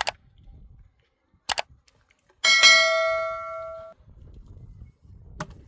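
A single bell-like metallic strike about two and a half seconds in, ringing with several clear tones and fading over about a second and a half before it stops abruptly. A few sharp clicks come before and after it.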